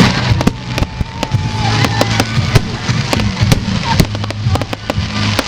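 Fireworks display going off: a rapid, irregular string of bangs and cracks, the loudest bang right at the start, over a steady low hum.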